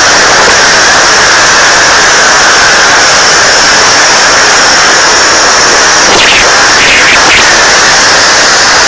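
Typhoon-force wind buffeting the microphone: a loud, steady rush of noise that overloads the recording, with a few short higher sounds about six to seven and a half seconds in.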